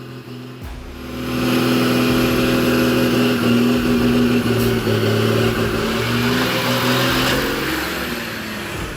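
Heavy truck engine running hard under load, a steady drone that comes up about a second in and eases slightly near the end, as the truck struggles up a hill.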